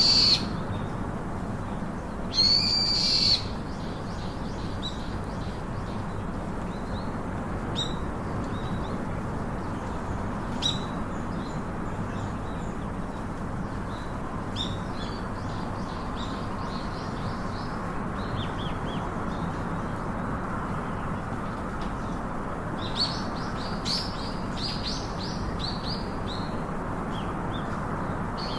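Wild birds calling: two loud high calls in the first few seconds, then scattered short chirps, with a denser run of twittering about 23 seconds in, over a steady hiss.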